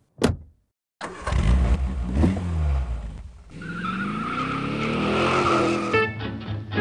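A car engine revving and accelerating, its pitch climbing, with a brief dip about three seconds in. Plucked guitar music comes in near the end.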